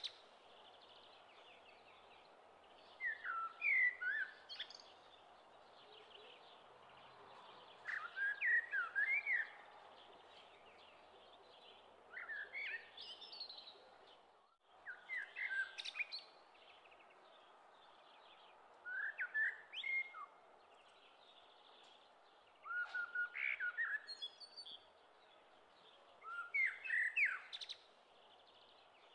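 A songbird singing short, quick chirping phrases about every four seconds over a steady background hiss, with a brief dropout in the sound about halfway through.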